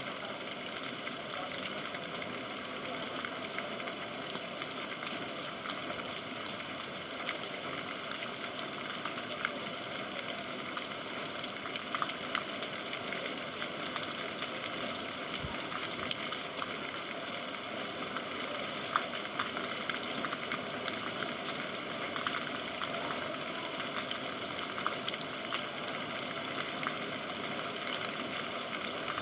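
Steady rain falling: an even hiss, dotted with many sharp ticks of drops striking hard surfaces.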